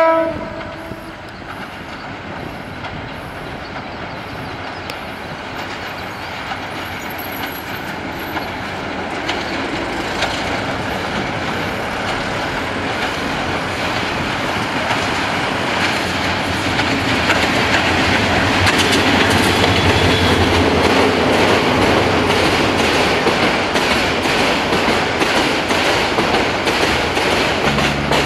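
Meter-gauge diesel train approaching and passing. A short horn blast comes right at the start, then a steady rumble of engine and wheels on rail grows gradually louder as the locomotive nears and passes. In the second half it is joined by rapid clacks of the wheels.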